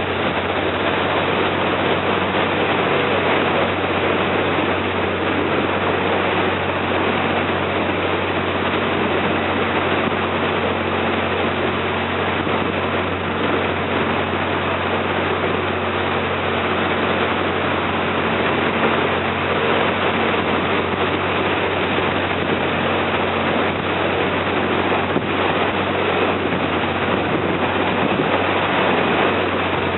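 A river slow boat's engine running steadily, a constant low hum under a wash of water and wind noise.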